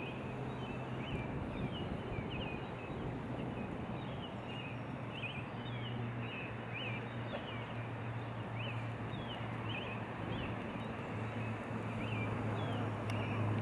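Small birds chirping over and over in short quick notes, over a steady background hiss and a low steady hum.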